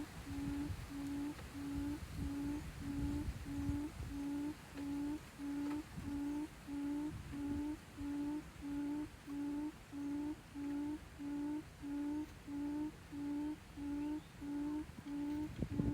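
A short, low hooting call repeated very evenly, about one and a half times a second, over a low rumble.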